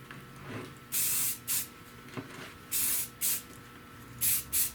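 Etching primer being sprayed in about six short bursts, each pair a longer burst followed by a quick one.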